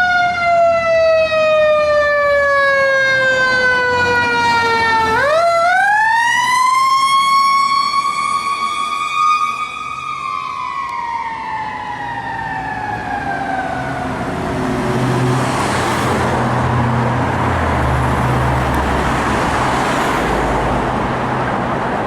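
Fire engine siren wailing: its pitch slides down for about five seconds, sweeps quickly back up, holds, then falls away and fades as the engine moves off. After that, a heavy truck engine and road traffic rumble.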